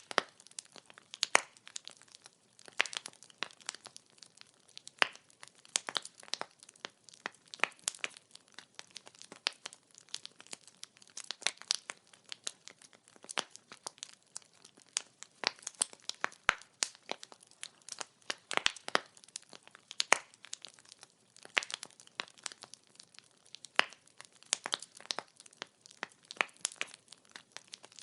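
Firewood burning and crackling, with frequent irregular sharp pops and snaps of varying loudness over a faint hiss.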